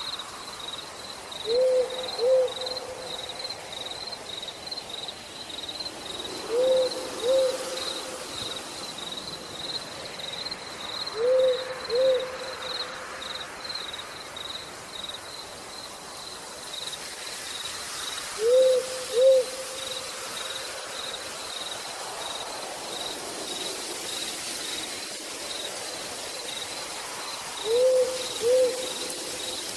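An owl hooting in two-note calls, a pair of short hoots repeated five times several seconds apart. Under it an insect chirps in an even, fast pulse over the steady hiss of rain.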